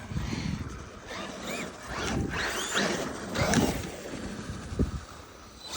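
Electric RC truck motors whining, rising and falling in pitch several times as the throttle is worked, over a low rumble with a few short thumps.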